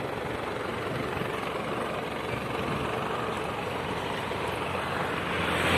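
A vehicle engine idling steadily, a low hum under a constant hiss.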